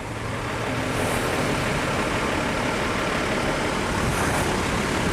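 Heavy truck traffic passing close: a steady engine and tyre rumble that swells during the first second and then holds.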